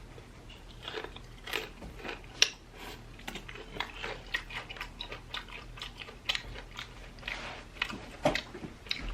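Close-up chewing and biting of breaded fried chicken tenders, with irregular short crunches and clicks throughout.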